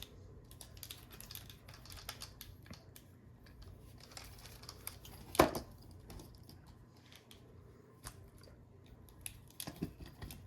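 Plastic parts of a Transformers Sandstorm action figure clicking and rattling as they are handled and folded, with one loud snap of a part about five seconds in.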